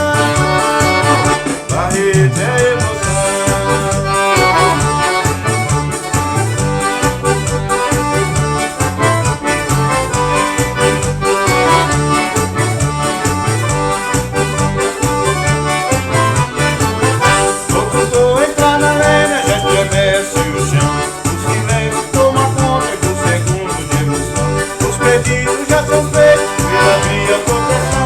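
Forró band playing an instrumental passage: accordion carrying the melody over a steady, evenly pulsing low beat.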